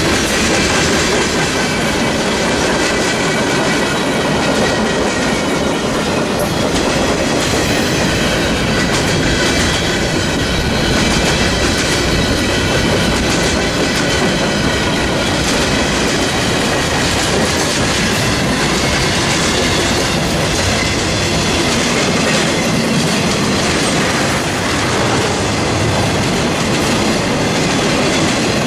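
A passing train's railcars rolling by, the wheels clattering steadily over the rail joints. The sound is loud and unbroken throughout.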